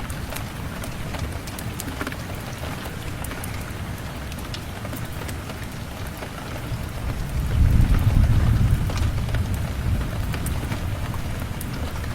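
Steady rain, with a low rumble of thunder that swells about seven seconds in and fades away over the next few seconds. Fine sharp ticks are scattered throughout.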